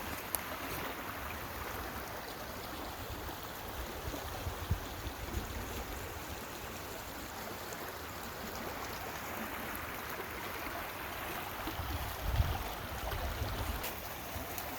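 Steady rush of a storm-swollen creek, a flood of rainwater. Low rumbles on the microphone come about four seconds in and again near the end.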